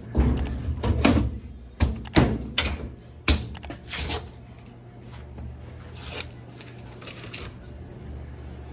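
Knocks and clatter of tools and parts being handled, several sharp ones in the first four seconds, then only a low steady hum.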